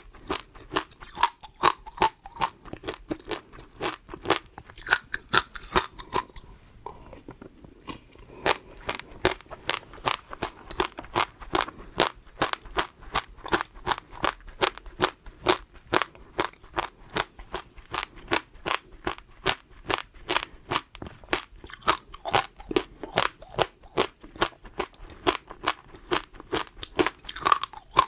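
Close-miked chewing of crunchy food: a steady run of crisp crunches, several a second, with a brief pause about six seconds in.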